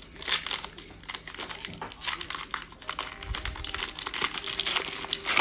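Plastic trading-card pack wrapper being torn open and crinkled in the hands, a dense run of crackles.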